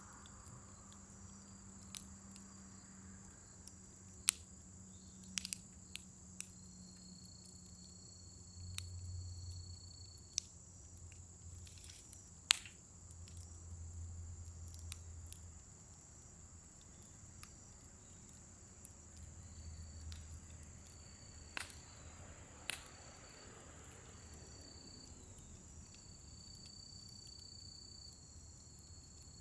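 Scrap-wood fire crackling faintly in a fire pit, with scattered sharp pops and soft low surges of flame, over a steady high insect chorus.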